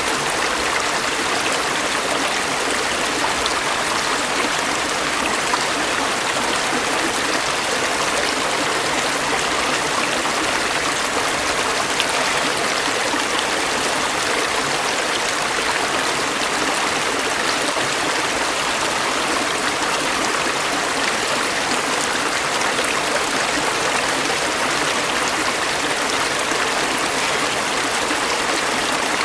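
A stream of water running and babbling steadily over rocks.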